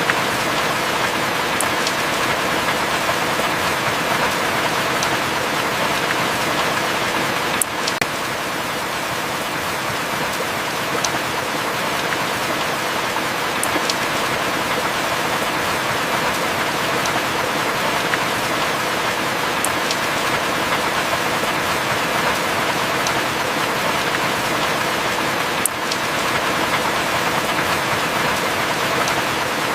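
Heavy rain falling steadily, a dense even hiss with occasional sharp drip ticks scattered through it.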